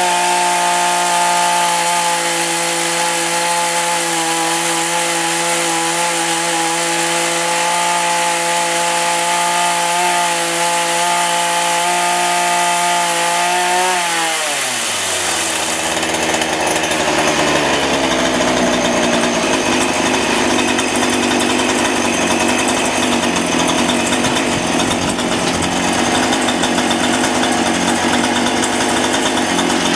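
Chainsaw running at high revs while cutting into a lead keel; about halfway through the engine pitch drops over a couple of seconds, and it carries on lower and rougher under load.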